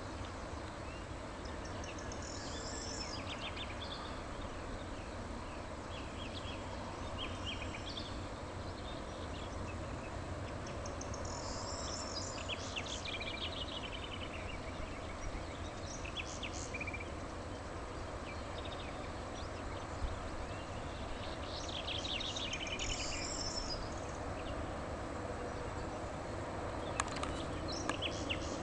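Small birds singing in short, high chirping phrases that come back every four to five seconds, over a steady hiss and low rumble.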